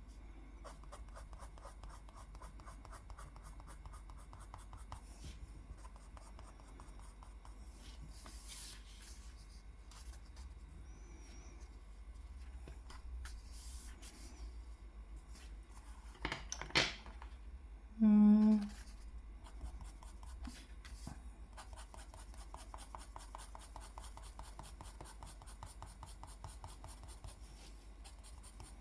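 Drawing on paper: a drawing tool scratching in quick, repeated strokes. About sixteen seconds in there is a sharp knock, and just after it a brief hum, the loudest sound.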